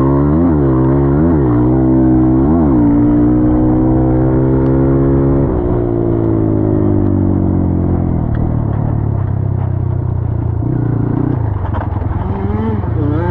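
Dirt bike engine revving in several quick rise-and-fall blips, then held at steady high revs. About five and a half seconds in the pitch drops suddenly and winds down slowly, running lower and unevenly near the end.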